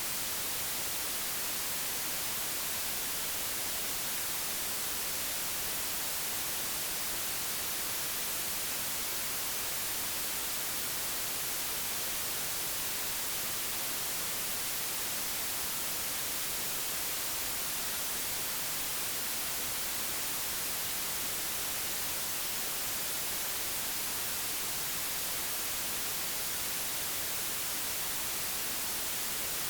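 Digitally generated white noise: a steady, even hiss with its energy leaning toward the high frequencies, unchanging throughout.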